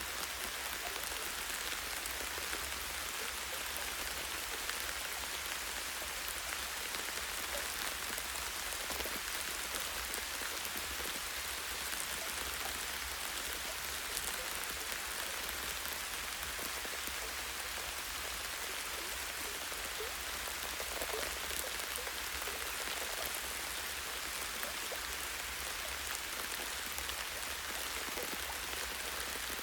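Light, steady rain falling on forest trees, a continuous patter with scattered individual drops landing on branches and leaves.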